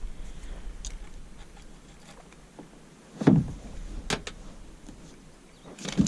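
A few scattered knocks and thumps on a plastic kayak's hull as a freshly caught fish is handled, the loudest a single thump about three seconds in, with lighter clicks around it.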